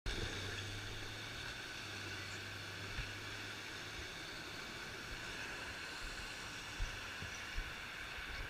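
Steady street and vehicle noise with a low hum and a few soft knocks.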